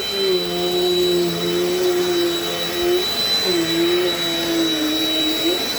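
Dirt Devil Dynamite Plus vacuum cleaner running with its brush roll: a steady motor whine with a high thin tone above it. The pitch wavers and dips briefly about three seconds in and again near the end as the load on the motor changes while the vacuum is pushed over the floor.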